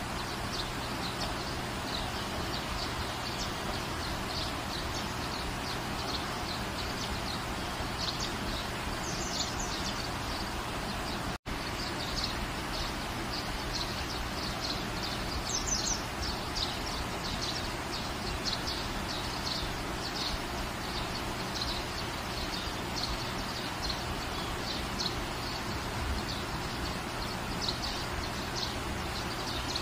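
Steady rain falling in a garden, an even hiss with many short high bird chirps over it. The sound cuts out for a split second about eleven seconds in.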